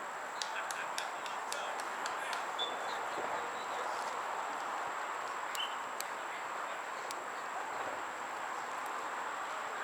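Open-air ambience at a soccer field: an even wash of distant noise under a steady high-pitched whine, with a quick run of sharp ticks in the first couple of seconds and three more later.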